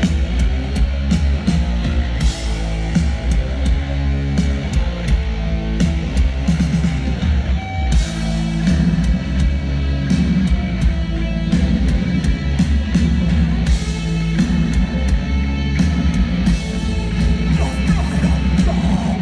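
Hardcore punk band playing live: distorted electric guitars, bass and fast drumming with frequent cymbal hits.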